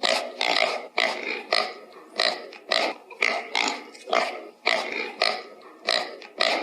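Pig grunting in a steady run of short, rough grunts, about two a second.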